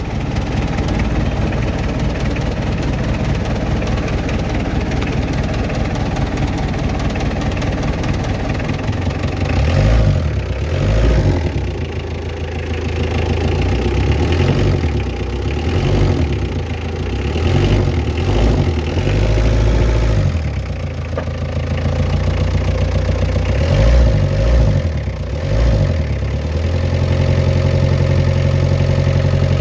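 Mitsubishi 4D56 four-cylinder diesel engine running cold. From about ten seconds in, its note rises and falls in uneven surges.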